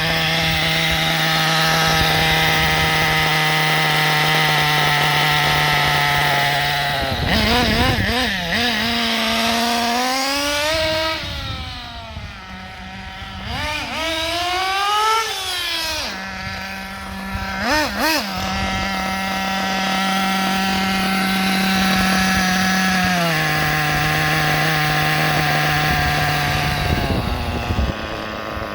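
RB .21 nitro engine in a Kyosho MP10 1/8 buggy, being tuned from break-in settings toward a steady idle. It idles steadily, then is revved several times: quick throttle blips and two longer rises and falls in pitch. After that it settles back into an even idle, first at a slightly higher speed and then a lower one, with a few more blips near the end.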